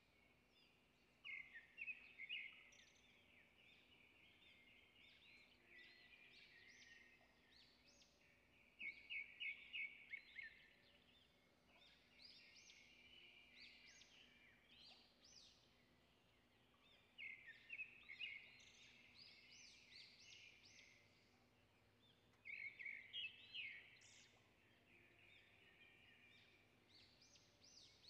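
Faint songbirds chirping and singing: bursts of rapid repeated high notes come every several seconds, about four times, with softer calls between.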